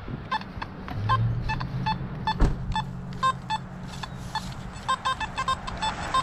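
Metal detector giving short, irregular beeps at two slightly different pitches as the coil sweeps over buried targets, coming in quicker clusters near the end.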